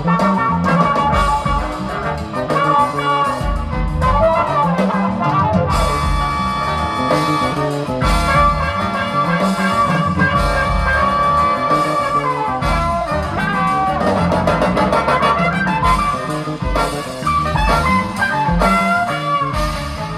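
Big-band jazz arrangement of a rock song: a brass section plays over a busy drum kit.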